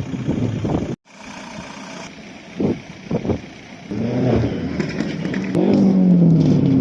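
Car engines running and revving, cut off by a brief dropout about a second in. Near the end a louder engine note falls steadily in pitch as the revs drop or the car passes.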